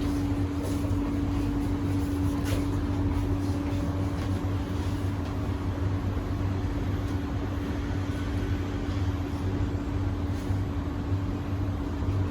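Steady low hum with a constant mid-pitched whine inside an SMRT C151A metro train car.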